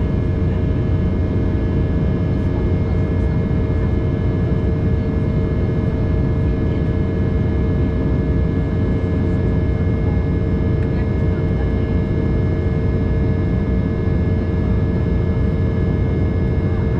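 Steady roar of an Embraer 190 airliner in flight, heard inside the cabin: its GE CF34 turbofans and the airflow over the fuselage, with a few steady whining tones held over a deep rumble and no change throughout.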